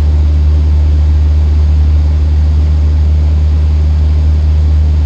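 Cessna 152's four-cylinder Lycoming engine and propeller droning steadily, heard from inside the cockpit as a loud, even low hum with no change in pitch.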